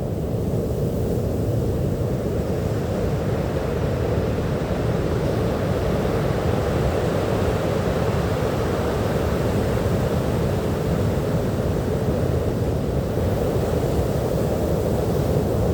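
Sea surf washing on a beach: a steady low rush of noise with no single wave break standing out, swelling a little after the first couple of seconds.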